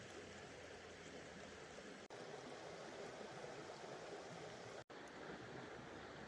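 Creek running over rocks: a faint, steady rush of water, broken by two split-second dropouts about two and five seconds in.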